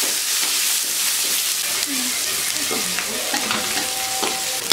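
Sliced onions sizzling in hot oil in a metal karahi, stirred and scraped around the pan with a flat spatula; a steady, dense frying hiss.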